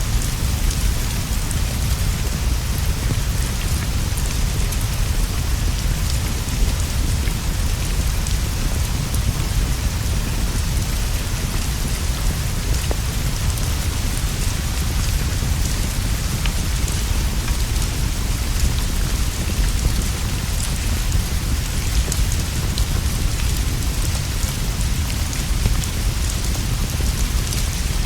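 Steady rainfall on leaves and a straw roof, an even hiss over a constant low rumble, with faint scattered ticks.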